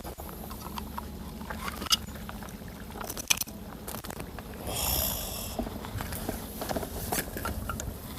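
Scattered clicks and knocks of tackle being handled, with a brief rasping noise about five seconds in, over a steady low rumble.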